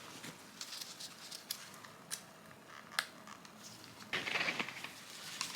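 Faint handling noises from a dental impression kit: scattered small clicks, a sharper click about three seconds in, and a short rustle just after four seconds.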